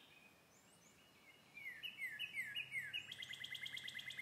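Faint songbird song: a few down-slurred whistled notes, then a fast trill, starting about a second and a half in.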